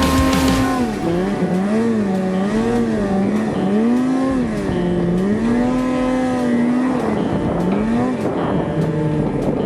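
Snowmobile engine running at high revs, held steady at first, then rising and falling repeatedly as the throttle is worked on and off.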